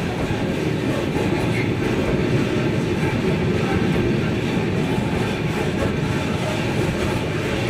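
Freight train of open-top gondola wagons rolling past, with a steady rumble and rattle of wheels on the rails.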